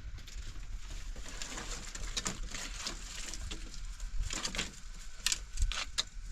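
Pigeons cooing, with short clicks and rustles coming thicker in the second half.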